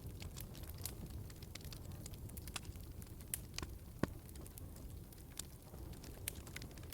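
Wood fire crackling in a fireplace: a steady low rumble of flames under scattered sharp pops and snaps, the loudest pop about four seconds in.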